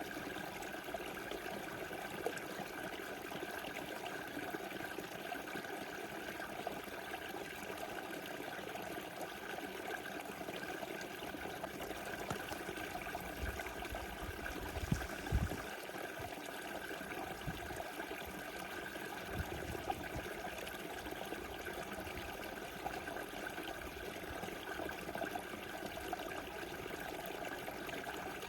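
Small river flowing over its bed: a steady rushing and trickling of water. A few short low bumps come about halfway through.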